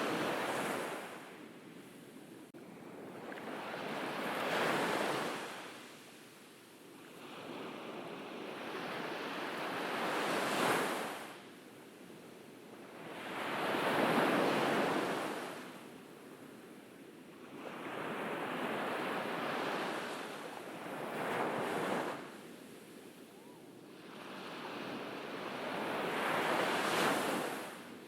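Ocean waves breaking on a beach, each surge of surf swelling and washing back about every four to six seconds.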